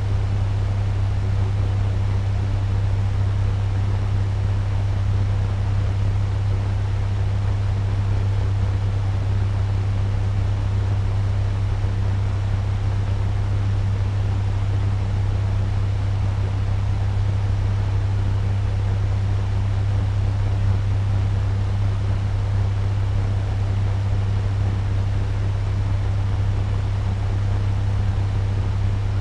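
Turbo fan running steadily at medium speed: an even rush of air over a strong, steady low hum.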